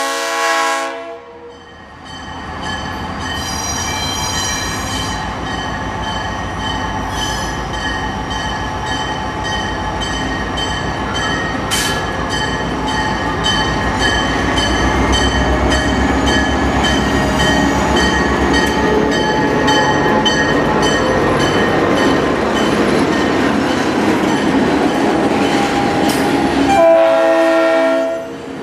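A diesel train's horn sounding, cutting off about a second in, then the train running past with a steady rumble and wheel noise that is heaviest in the middle. The horn blows again near the end.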